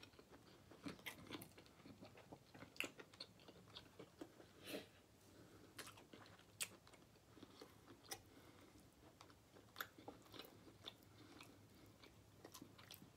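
Faint chewing of smoked turkey leg meat, with irregular small wet clicks and lip smacks.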